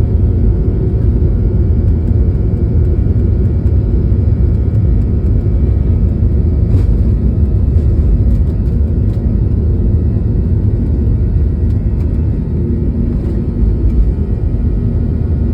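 Boeing 737-800's CFM56-7B turbofan engines running with a steady, loud low rumble.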